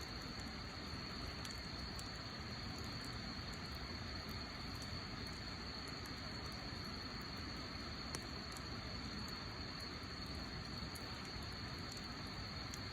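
Wood fire burning: a steady hiss with a few faint crackles and pops, one a little louder about eight seconds in, over a constant high-pitched drone.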